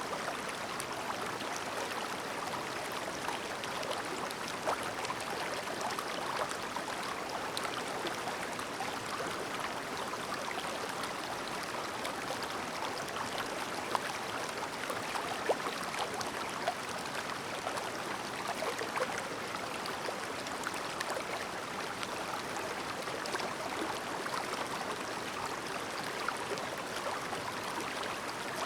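A clear, shallow river babbling over stones: a steady rushing of water with small trickles and splashes scattered through it.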